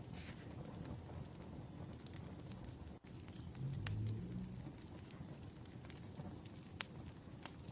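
Wood fire crackling: scattered sharp pops over a low, steady rumble of burning logs, with a brief louder low swell about four seconds in.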